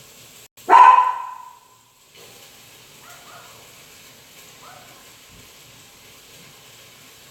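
A dog barks once, loudly, about a second in.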